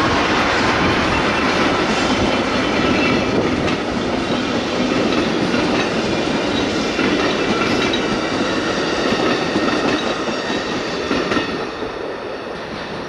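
Train rolling past on the rails, its wheels clattering over the track joints in a steady rumble that eases near the end.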